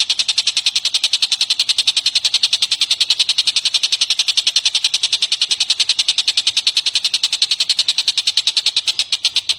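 Songbird call from a birdsong training recording: a loud, high, rapid trill of even notes, about eight a second, kept up without a break.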